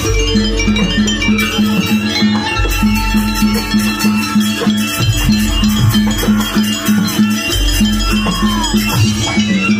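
Live jaranan gamelan music: a steady, fast beat of struck percussion over a repeating low pulse.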